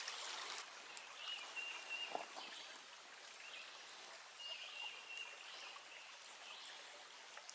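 Small creek running, a faint even hiss of flowing water, with a thin high steady note heard twice.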